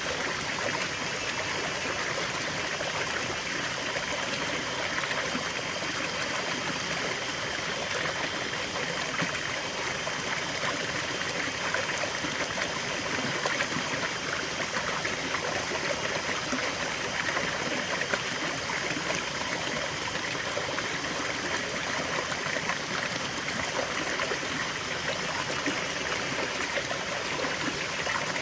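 Small stream of water flowing and trickling steadily, a continuous even rush of moving water.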